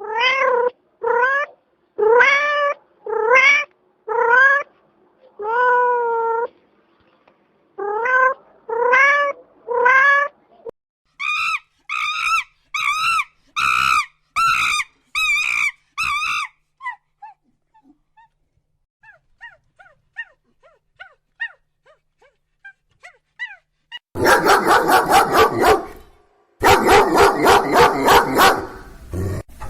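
A cat meowing over and over, about one call a second, followed by a run of quicker, higher-pitched calls and some faint chirps. Rapid harsh dog barking starts near the end.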